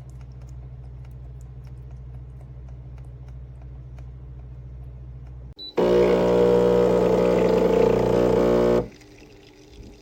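Chefman espresso machine's 15-bar pump buzzing loudly for about three seconds, starting about six seconds in and cutting off abruptly. A steady low hum runs before it.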